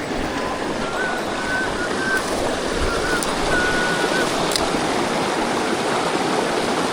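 Mountain stream water rushing over rocks, a steady noise. A few short, faint, high whistle-like tones come and go over it in the first half.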